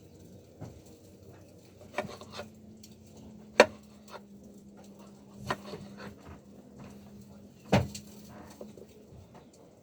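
Scattered knocks and clicks of dishes and cutlery during a meal, with two louder knocks, one about a third of the way in and one near the end, over a faint steady hum.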